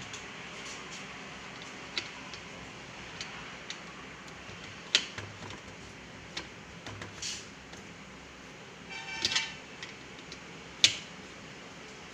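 Scattered sharp clicks and taps of small metal hand tools on a circuit board and workbench while a MOSFET is being desoldered from a TV power-supply board, with a brief metallic ring about nine seconds in.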